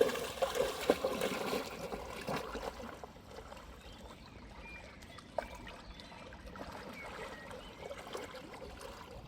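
Shallow stream water trickling and splashing, busiest in the first two or three seconds, then settling to a quieter steady trickle.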